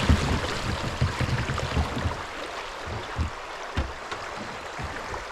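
Shallow creek water running around a kayak, with a few short, dull low knocks.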